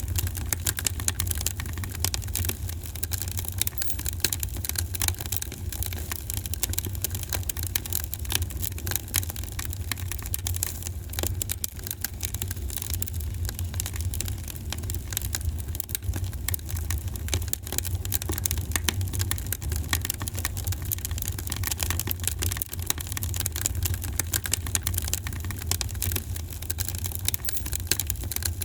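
Wood fire crackling in a fireplace, with frequent small pops over a steady low rumble.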